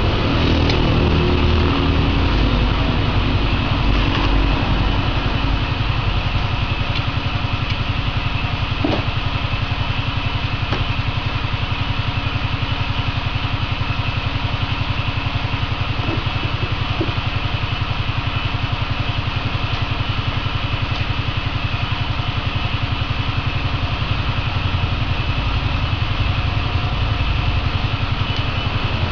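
A steady machine drone with a fast, even low pulse, running without a break.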